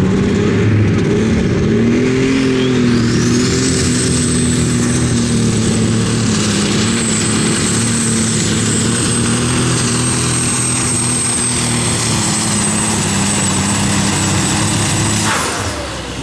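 Pulling tractor's engine running at full power through a pull. A high whine climbs in pitch about three seconds in and holds steady, then the engine cuts back sharply near the end as the pass ends.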